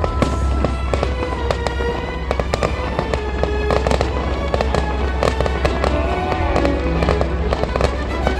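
Fireworks display: rapid, repeated bangs and crackling from aerial shells, over music playing throughout.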